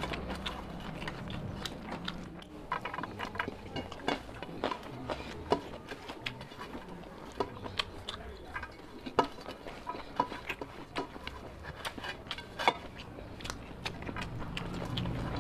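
Close-miked chewing and lip-smacking of a mouthful of rice and curry eaten by hand, a string of sharp wet clicks, with fingers gathering rice on a steel plate near the start.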